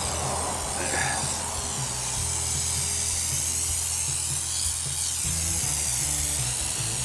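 Aerosol can of tire foam spraying in a long steady hiss, with background music underneath.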